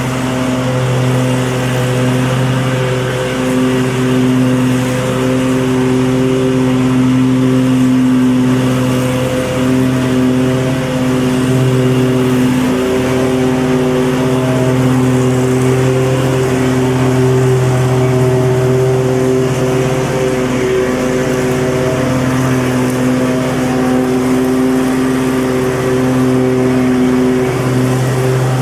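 Lawn mower running steadily with an even, unbroken motor note.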